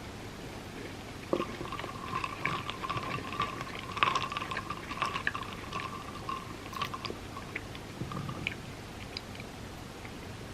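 Close-miked eating: chewing with many sharp clicks and crackles, starting about a second in and thinning out near the end. Under it runs a steady high whine over the same stretch.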